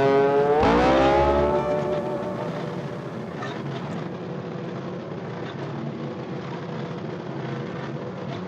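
Mini excavator engine running: its pitch rises about a second in, then it runs steadily.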